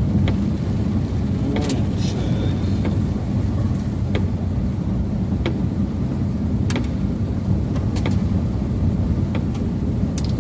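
Steady low road and engine rumble inside a moving car, with sharp ticks about every second and a quarter and a brief high tone about two seconds in.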